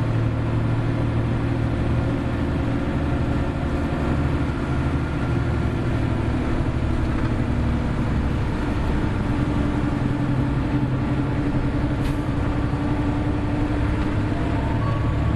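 Hino Blue Ribbon City hybrid bus (BJG-HU8JLFP) running on the road: a steady low diesel drone with a whine that climbs slightly in pitch over the second half. A short sharp click about twelve seconds in.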